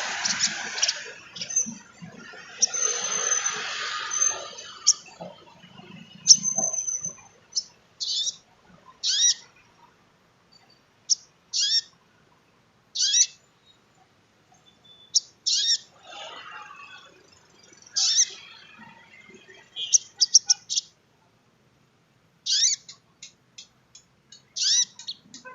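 Sogon trotol, a small bird of the sunbird family, giving sharp, high chirps and short trilled bursts, some sweeping downward, in scattered groups with short silences between them. A rushing noise lies under the calls for the first few seconds.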